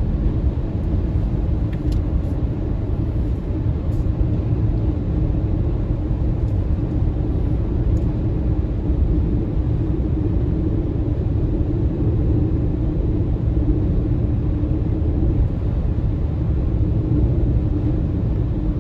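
Steady road rumble from an MG ZS EV electric SUV being driven: tyre and road noise with no engine note, holding an even level throughout.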